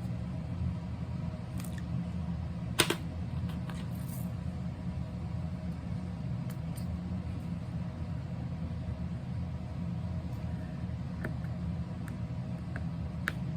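A steady low hum with a few light clicks and taps, the sharpest about three seconds in.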